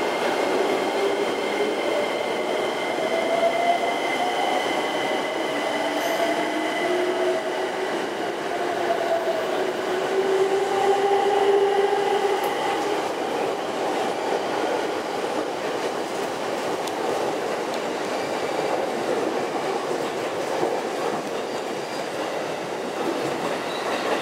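JR E257-series electric train pulling out of the station and rolling past at low speed, with continuous running noise. Thin steady high whines sound over it, and in the first half lower whining tones waver up and down.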